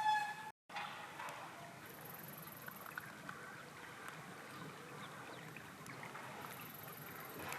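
Steady rush of flowing river water. A short pitched call sounds at the very start, and a faint high buzzing comes twice.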